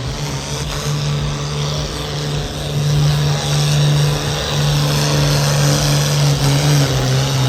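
Oliver farm tractor's engine running hard under load while pulling the weight sled, getting louder about three seconds in.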